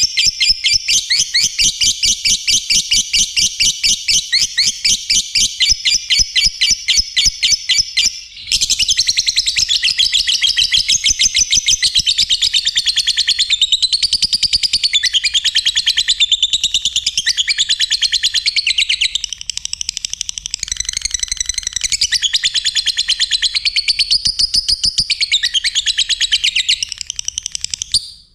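Lovebird singing in a long, fast chattering trill, then after a short break about eight seconds in, more varied high chirping and warbling.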